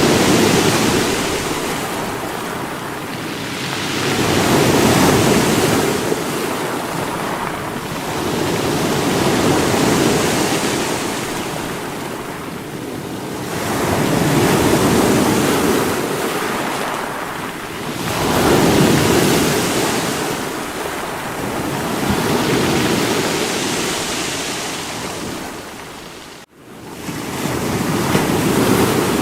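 Sea waves breaking against rocks, each surge swelling and washing back about every four to five seconds. There is a sudden brief cut-out in the sound near the end.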